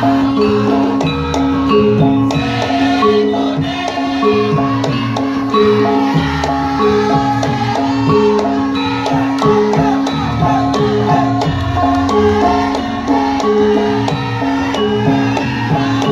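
Javanese gamelan ensemble playing: metallophones strike a repeating melody in an even pulse over drum strokes.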